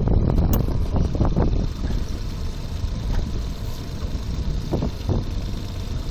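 Wind buffeting the microphone on a small boat, a heavy low rumble, with a few brief knocks in the first second and a half and again about five seconds in.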